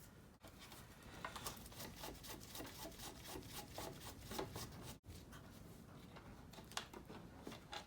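Faint clicks, taps and rubbing of plastic parts being handled and pried apart as a Honda Dio scooter's head panel and speedometer housing are dismantled. The clicks come thickest through the middle, and the sound breaks off briefly about five seconds in.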